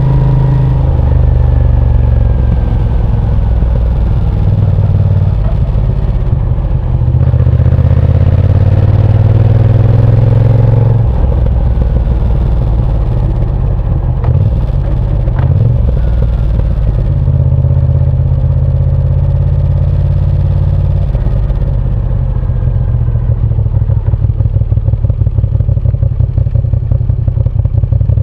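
Moto Guzzi V7 Sport's air-cooled transverse V-twin engine running on the move, its pitch shifting several times as the throttle and revs change. Near the end the sound takes on a fast, even pulsing.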